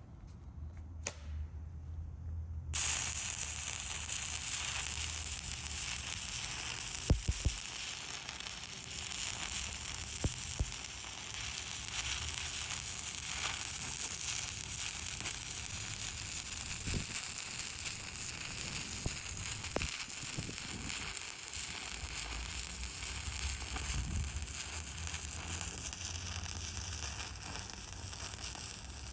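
Stick welding arc from a 3/32-inch 7018 electrode at 85 amps, struck about three seconds in and then crackling steadily as the rod burns, with a few sharper pops.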